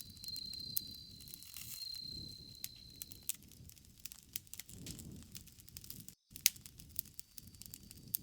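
Bonfire crackling, with irregular sharp pops and snaps over a low rumble of the flames. A steady high insect trill sounds for the first three seconds or so. Everything cuts out for a split second about six seconds in.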